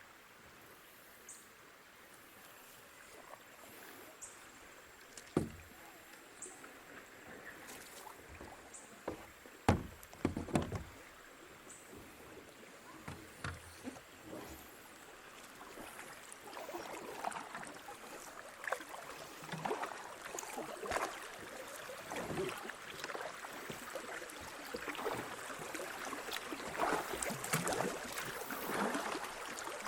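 Kayak paddles dipping and splashing in creek water, with a few sharp knocks in the first half; the splashing gets busier from about halfway through.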